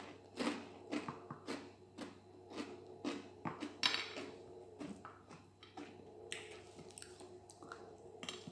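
Close-up eating sounds of a person chewing soft food with wet mouth smacks and clicks, about two or three a second at first, growing sparser and fainter after about five seconds.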